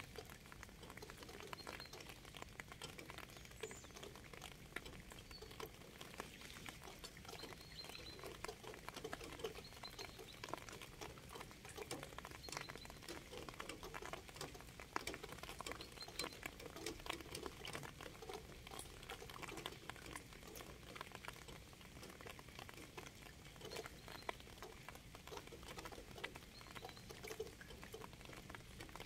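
Rain pattering: a steady, dense run of small drop ticks.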